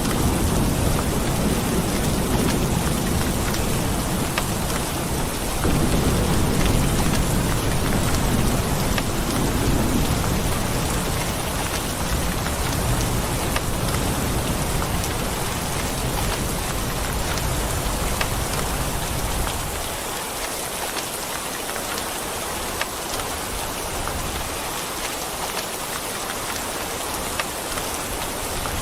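Steady heavy rain pattering on a surface. Low rolling thunder rumbles under it in the first third and dies away.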